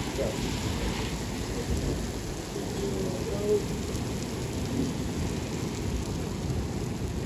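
Thunderstorm: steady rain with a continuous low rumble of thunder underneath.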